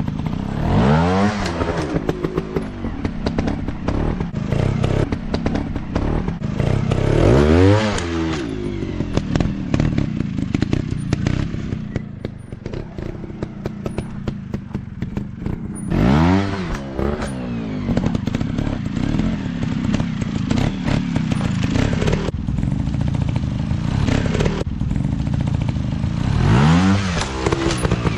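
Dirt bike engines running, revving up and back down four times, with rattling and popping throughout.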